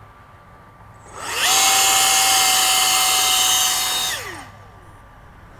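The twin 64 mm electric ducted fans of a Freewing A-10 RC jet spool up with a rising whine about a second in, run at full throttle with a steady high whine and rushing air for about three seconds, then spool down with a falling whine. This is a takeoff run on grass cut short, which the pilot puts down to wheels that are too small.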